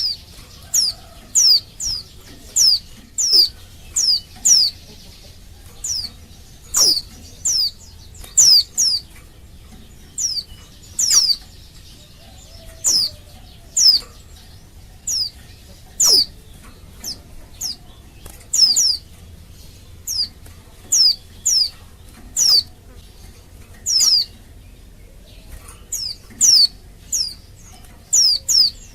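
Female white-eye (pleci) calling: short, high chirps that fall steeply in pitch, repeated every half second to a second, often in quick pairs. It is the call of a female in breeding condition calling for a male.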